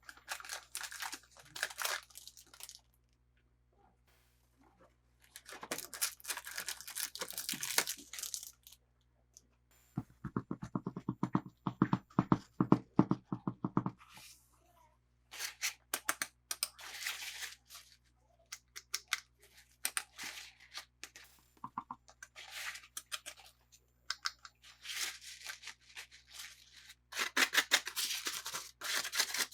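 Toy packaging being torn open and handled by hand: several bursts of tearing and crinkling separated by short pauses, with a few seconds of denser, lower rasping strokes around the middle.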